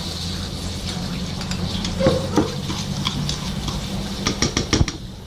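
Light clicks and taps of a spoon against a bowl while sauce ingredients are mixed, with a quick run of clicks near the end, over a steady low hum.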